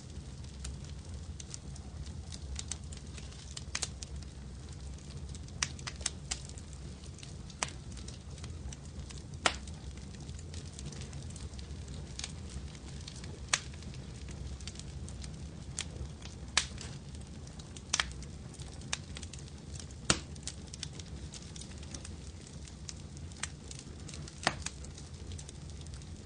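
Wood fire crackling in a fireplace: a steady low rumble of burning with irregular sharp pops and snaps, several of them loud.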